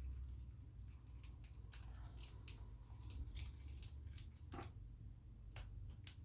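Faint clicks and light scratching of small hand tools working on a smartphone's internal parts, scattered irregularly over a steady low hum.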